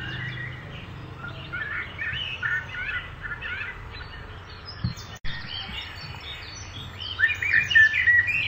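Birds chirping and calling in short high bursts, in two spells with a quieter stretch between, over a low steady background; a brief break in the audio about five seconds in.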